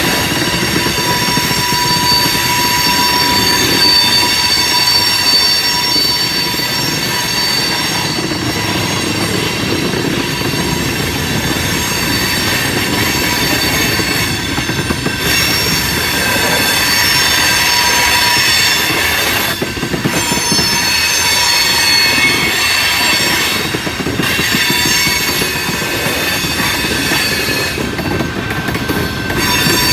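Freight train cars rolling past, their steel wheels squealing on the rails in several steady high-pitched tones over the continuous rumble and clatter of the train.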